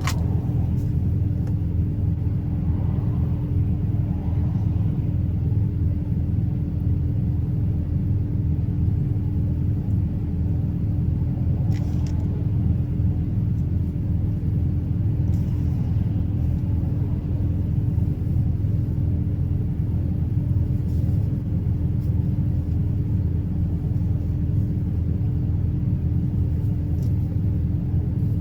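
Truck running at a steady speed: an even low drone of engine and road noise with a constant hum above it.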